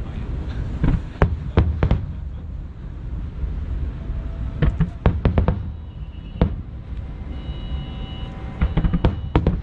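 Aerial firework shells bursting in clusters of sharp bangs over a steady low rumble: a group about a second in, another around five seconds in, and a rapid run near the end.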